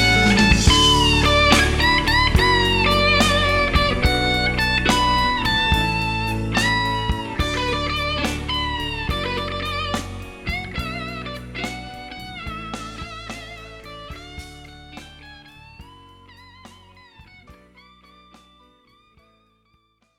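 Electric blues guitar solo with bent, sustained notes over a band backing, fading out gradually to silence near the end as the song closes.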